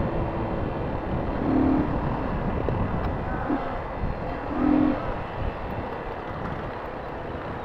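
A motorcycle running on the road during a ride, under a steady rush of noise. Short low tones come through briefly about a second and a half in and again near five seconds.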